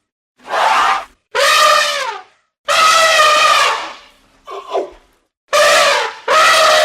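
Elephant trumpeting: a series of about six loud, brassy trumpet calls, each about a second long with short silences between, the fourth shorter and quieter.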